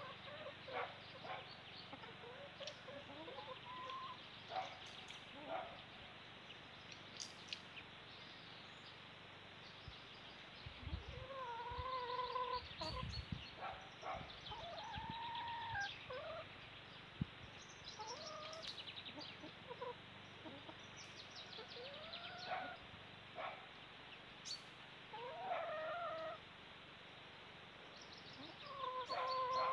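Birds calling around a garden bird feeder: many short high chirps, mixed with longer, lower drawn-out calls that come every few seconds. A brief low rumble comes about eleven to thirteen seconds in.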